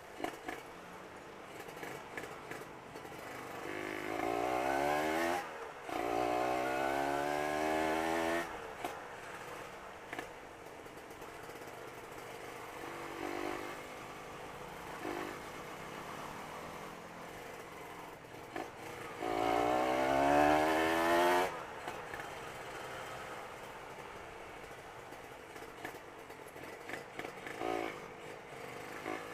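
Motorcycle engine accelerating hard in bursts, its pitch rising, with a short break for a gear change about five seconds in and another long rise around twenty seconds in, between stretches of quieter steady running.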